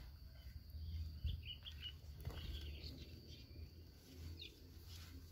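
Faint, scattered bird chirps over a low steady rumble.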